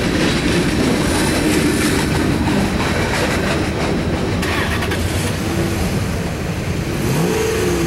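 Tail end of a CSX freight train rolling over the crossing, its wheels rumbling on the rails and fading as the last covered hopper clears. A short rising and falling tone comes near the end.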